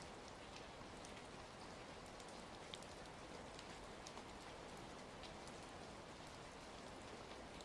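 Faint, steady rain with scattered small crackles and ticks of a wood fire through it.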